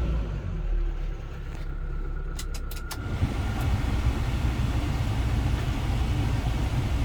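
Kia Bongo 3 cargo truck's engine running with a steady low rumble, which grows fuller about three seconds in. Just before that comes a quick run of four or five sharp clicks.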